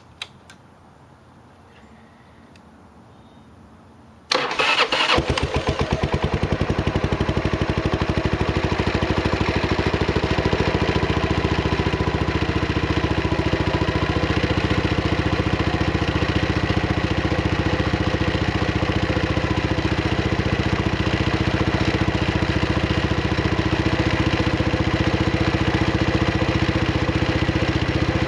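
2003 Buell Blast's 500 cc single-cylinder four-stroke engine being cold-started: a click near the start, then about four seconds in it is cranked briefly, catches, and settles into a steady, evenly pulsing idle.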